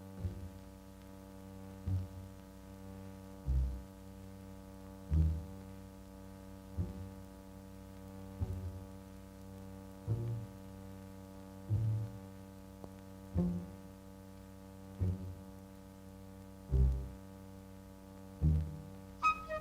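Cartoon soundtrack: a steady droning hum with a soft, low throb about every second and a half to two seconds, and a brief brighter accent near the end.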